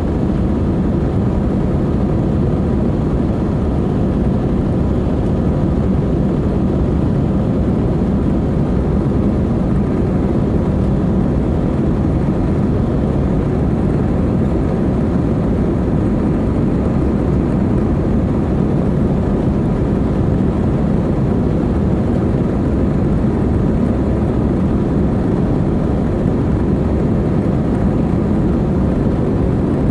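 Steady low roar of an Airbus A320's jet engines and rushing air, heard inside the cabin during the climb after takeoff, with a faint steady hum on top.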